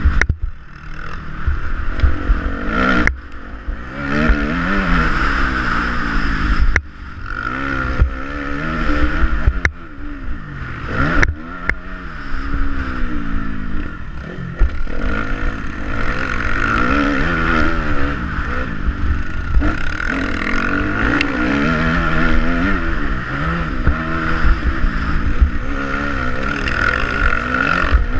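Dirt-bike engine revving up and down repeatedly under a steady low rumble, broken by several abrupt cuts.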